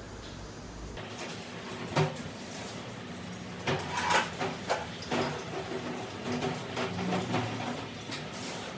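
Irregular knocks and clatter of hard objects being handled, with one sharp knock about two seconds in and a quick run of knocks around the middle.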